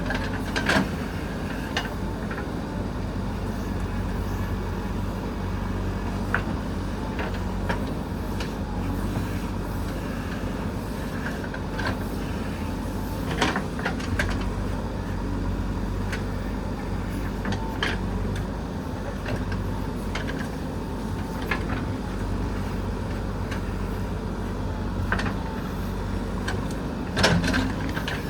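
JCB 3DX backhoe loader's diesel engine running steadily, with sharp knocks and clanks scattered through and a louder cluster near the end.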